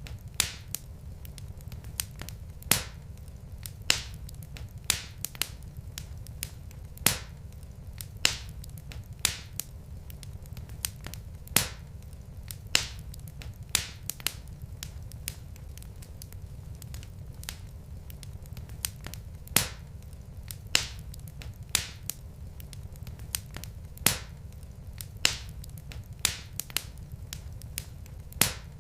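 Logs burning in a fireplace, crackling: sharp pops about once a second over a low, steady rumble of the fire.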